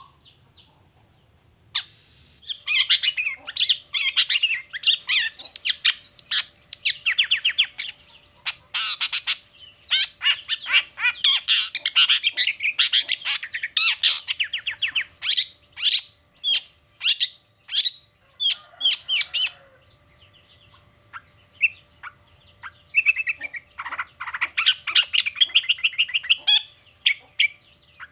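Long-tailed shrike singing a fast, chattering song packed with mimicked phrases. It starts a couple of seconds in, has a run of sharp, separate repeated notes partway through, pauses briefly, then sings again near the end.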